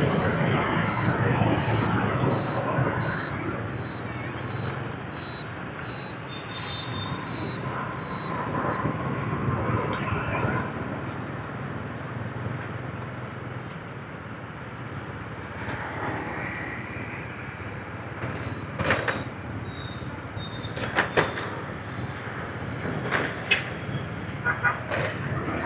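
Motorbike traffic heard from a riding motorbike: many small motorbike engines running in a steady mixed drone. A high electronic beep repeats about twice a second for the first several seconds, and a few sharp clicks or knocks come near the end.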